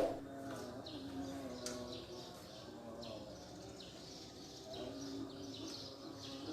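Faint birdsong: short high chirps repeating every second or so over low, wavering cooing notes.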